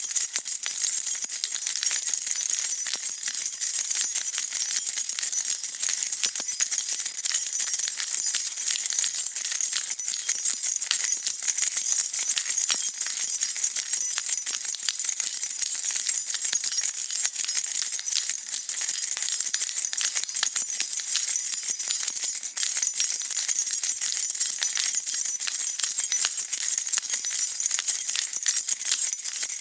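A bunch of metal keys shaken continuously, a dense steady jingle of many small bright clinks.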